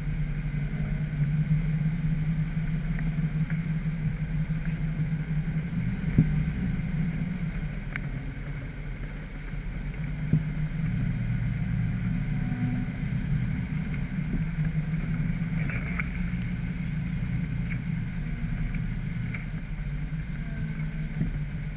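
Jeep engine running steadily while off-roading, a low drone with a couple of sharp knocks about 6 and 10 seconds in.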